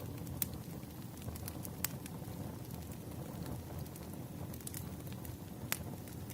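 Wood campfire burning with a steady low rush and scattered sharp crackles and pops, the loudest about half a second, two seconds and nearly six seconds in.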